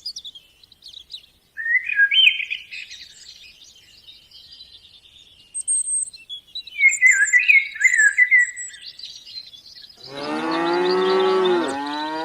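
Small birds chirping and twittering in short bursts, then near the end a cow lets out a long, loud moo.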